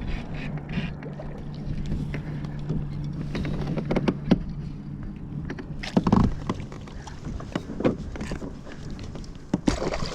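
Knocks, bumps and water splashing on a kayak as a flounder is fought and netted alongside. A steady low hum runs through the first half, and there is a heavier thump about six seconds in.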